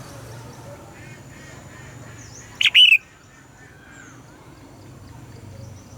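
Red-whiskered bulbul giving one loud, short two-part song phrase about halfway through, over faint chirping from other birds and a low steady hum.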